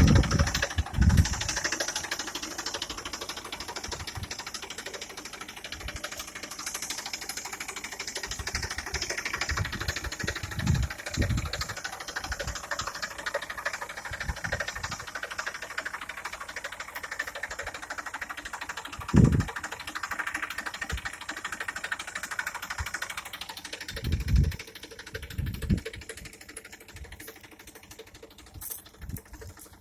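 Tractor engine running steadily under load, easing off about 23 seconds in, with several short low thumps along the way.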